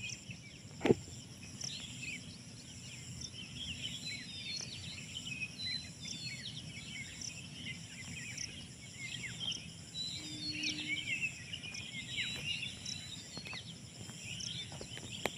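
Many small birds chirping and calling over one another in a morning chorus, with a high insect trill pulsing steadily behind them. A single sharp click about a second in stands out above the birds.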